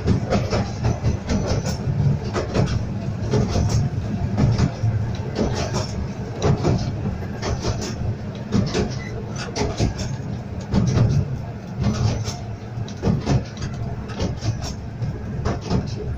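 Miniature steam railway train running along the track, heard from on board: a steady low rumble with irregular clicks and clatter of the wheels over the rails.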